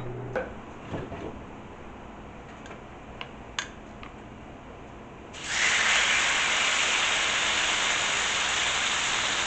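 Yogurt-marinated chicken breasts laid on a hot flat-top griddle: after a few light clicks, a loud, steady sizzle starts suddenly about five seconds in.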